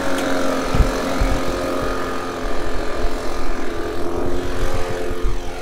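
An engine running steadily at constant speed, with irregular low rumbling over it.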